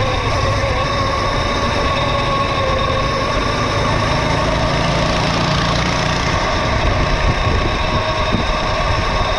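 Mini bike running steadily at speed on a dirt trail: a steady motor note that wavers slightly in pitch over a continuous low rumble.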